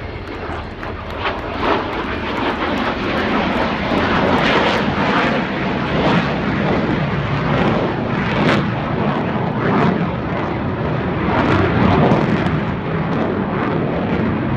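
Aircraft engine roar from an aircraft in flight: a loud, noisy rumble that builds over the first few seconds and stays strong.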